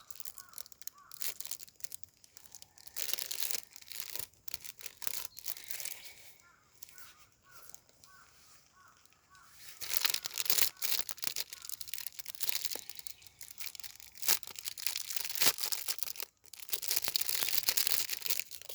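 Bursts of rasping, crinkling noise, some drawn out over a second or two, with sharp clicks in between.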